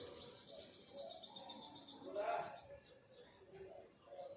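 Birdsong: a fast, high trill of many quick repeated notes, about ten a second, lasting about two and a half seconds. Fainter, lower bird calls sound underneath and carry on after the trill stops.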